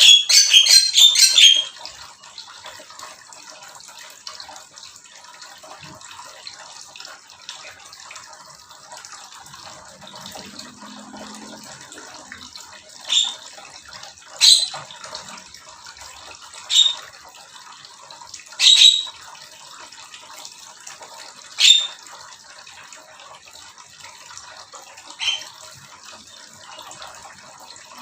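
Small aviary birds calling: a quick run of loud chirps at the start, then six short sharp calls spaced a second or more apart. Behind them is a steady hiss like running water.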